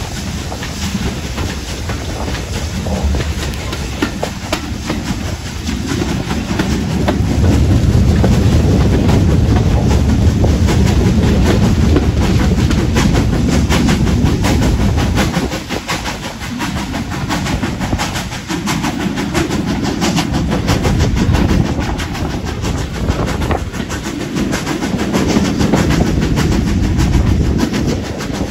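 Steam-hauled train running along the line: the heavy rumble of wheels on the rails with a dense clickety-clack over the track, loud from close beside the locomotive.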